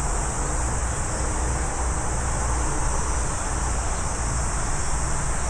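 Steady high-pitched chorus of insects outdoors, unbroken throughout, with wind rumbling on the microphone underneath.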